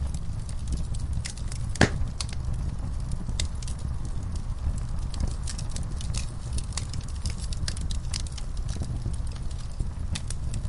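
Wood fire burning in a fireplace: a steady low rumble of the flames with irregular sharp crackles and pops, one louder pop about two seconds in.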